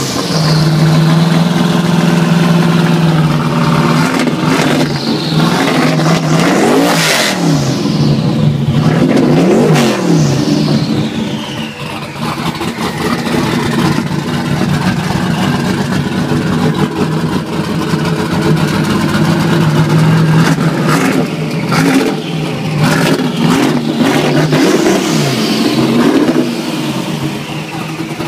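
Modified performance truck's engine running loudly at idle, blipped several times so the revs rise and fall, with a high whine that drops away after each rev.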